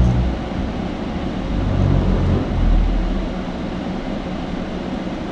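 Truck engine and road noise heard inside the cab: a steady low rumble that swells at the start and again about two to three seconds in.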